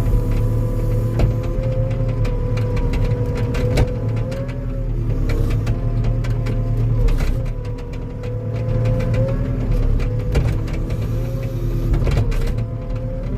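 Engine of a compact tracked machine running under load while it pushes against a tree, with a whine that wavers up and down in pitch and frequent clicks and knocks.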